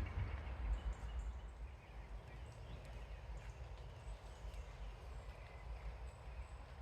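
Quiet woodland ambience: a steady low rumble of wind on the microphone with faint scattered ticks and a few faint high calls.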